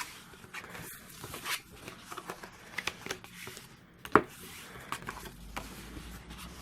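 Card stock being folded and burnished along its score lines: soft paper rustling and scattered small clicks, with one sharper tap about four seconds in.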